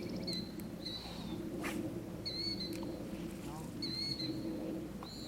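A bird calling over and over in short, high chirps, several times across a few seconds, over a low steady murmur.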